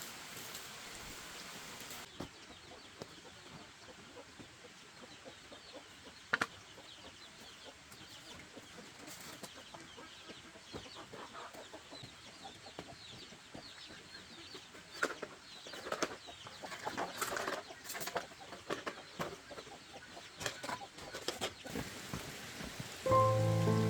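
Chickens clucking now and then over a faint steady hiss, the calls thickest in the second half. Music comes in just before the end.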